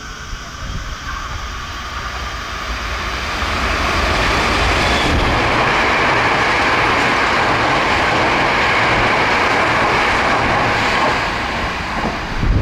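Hankyu Kobe Line limited express electric train passing at high speed. Its noise builds over a couple of seconds, stays loud for about seven seconds, then fades near the end.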